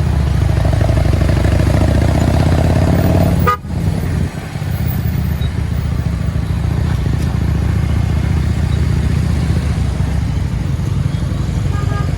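Motorcycle engine running at a steady speed on the road, heard as a continuous low hum with wind noise on the microphone. The sound drops out sharply for a moment about three and a half seconds in.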